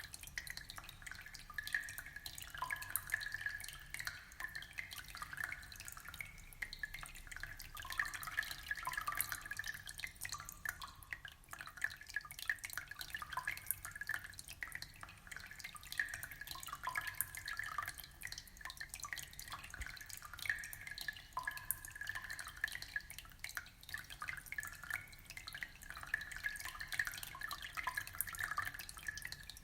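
Aquarium water trickling and dripping: a steady patter of many small drips and splashes.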